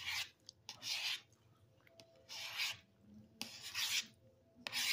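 Crunching of crisp fried flautas being bitten and chewed close to the microphone: several short, rasping crunches with pauses between them.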